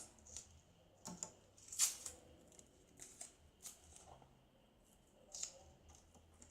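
Faint handling of craft materials: scattered light clicks and rustles, the loudest about two seconds in.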